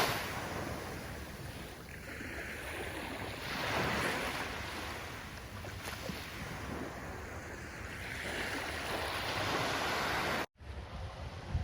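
Ocean surf: waves breaking and washing in, swelling roughly every four seconds. About ten seconds in it cuts off abruptly and gives way to a quieter, low, wind-like rumble.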